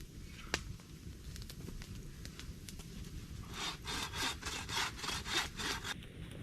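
Hand saw cutting wood: a quick run of rasping strokes, about four a second, starting about halfway through and stopping some two and a half seconds later. A few sharp crackles come before it over a steady low rumble.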